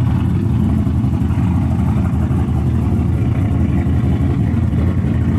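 LS V8 engine in a Nissan 350Z running steadily through a loud single-pipe exhaust.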